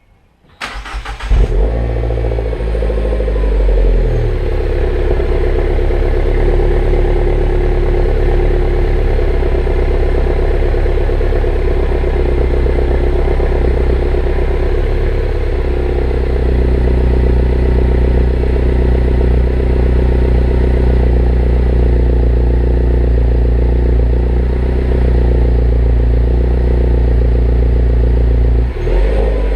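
Mini John Cooper Works R56's turbocharged 1.6-litre four-cylinder engine cold-starting through its stock exhaust: a brief crank about half a second in, catching with a loud flare, then settling into a steady idle. Near the end the idle briefly dips and changes.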